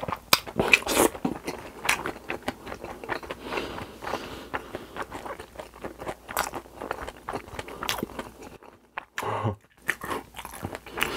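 Close-miked chewing of a mouthful of spicy cold noodles with crispy fried pork cutlet: wet chewing with many sharp crunches and crackles, easing into a short lull about nine seconds in.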